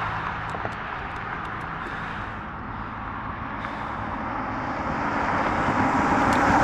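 Road traffic: one vehicle's noise fades in the first few seconds, then a car's tyre and engine noise grows steadily louder as it approaches near the end.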